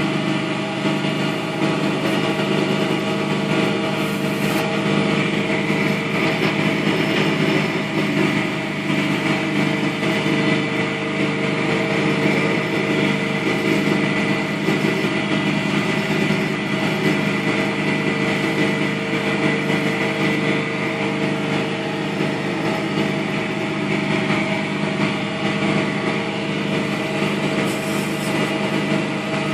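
Wood lathe running steadily while abrasive paper is held against the spinning oak blank to sand it, a steady motor hum under a continuous sanding hiss.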